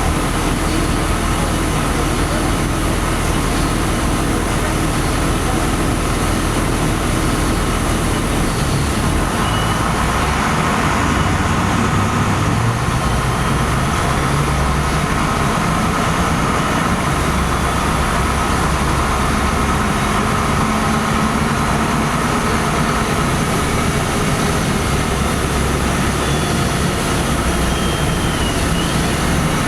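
LiAZ-5256 city bus diesel engine heard from inside the bus: it runs steadily at low revs, then about eight seconds in the bus moves off and the engine note rises and shifts as it accelerates, over road and cabin noise.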